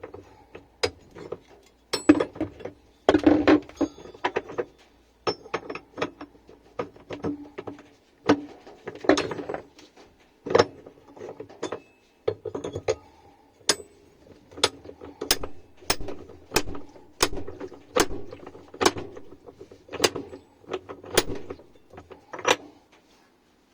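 Hand tools working on the nuts of a washing machine's inner tub: a series of sharp metallic clicks and clinks. They are irregular at first, then come more evenly, about one and a half a second, in the second half.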